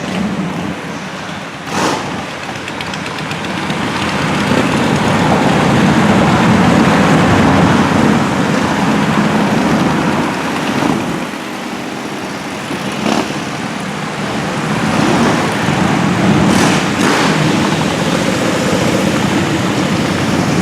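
A procession of motorcycles and other road vehicles passing by, their engines a dense, continuous noise that swells and fades as groups go past, with a few brief sharp sounds among it.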